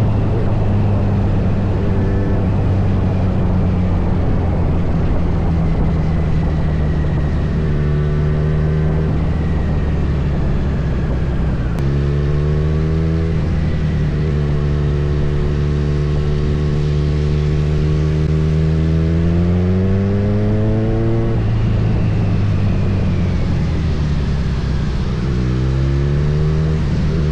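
Kawasaki Z900's inline-four engine pulling under way. The pitch holds steady, climbs, drops abruptly at each gear change and climbs again several times, over a low rumble of wind on the microphone.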